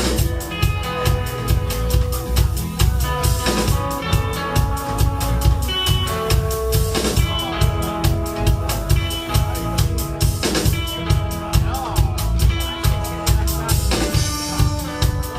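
Live band playing an instrumental dance-rock passage: a drum kit keeps a fast, steady beat with kick and snare, under held notes from the other instruments.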